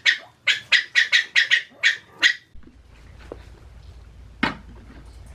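A quick series of short animal calls, about three or four a second, that stops about two seconds in. A low steady hum follows, with a single knock about four and a half seconds in.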